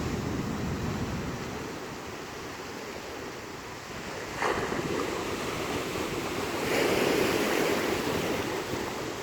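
Rough sea: waves breaking and washing in, with strong wind on the microphone. A wave crashes in suddenly about four and a half seconds in, and a louder surge follows near seven seconds.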